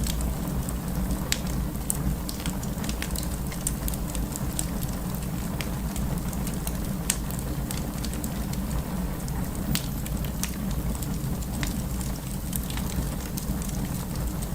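Wood fire crackling: irregular sharp pops and snaps, scattered unevenly, over a steady low rumble of the burning fire.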